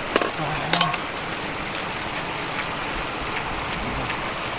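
Steady rush of flowing floodwater, with two short sharp splashes or knocks about a second in.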